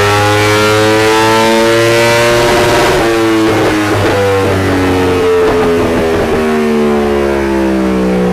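Yamaha R1 inline-four sport-bike engine making a full-throttle dyno pull, its revs climbing steadily under load, with a brief falter about three seconds in. The sound cuts off suddenly at the end.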